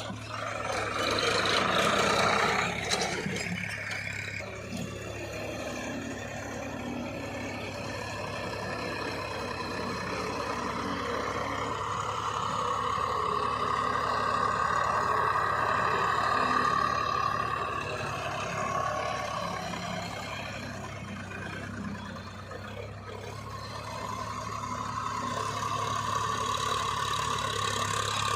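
Tractor diesel engine running steadily, its sound swelling and easing off, with a dip about two-thirds of the way through.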